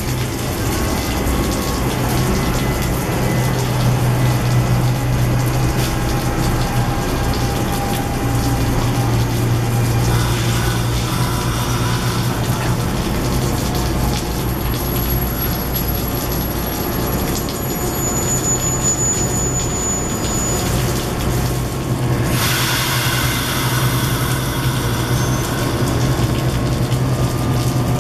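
NJ Transit commuter train running through the station in rain: a steady low hum and rumble under a constant wet hiss of rain and spray. Faint high whines come in midway, and the hiss grows brighter near the end.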